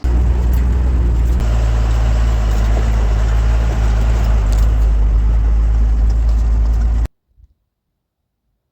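Off-road vehicle's engine running steadily and loud, with a constant low hum under a rushing noise; it cuts off abruptly about seven seconds in.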